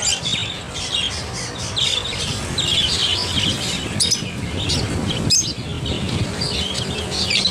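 Many caged birds chirping and squawking together, a steady mass of short chirps with two sharp, shrill calls about four and five seconds in.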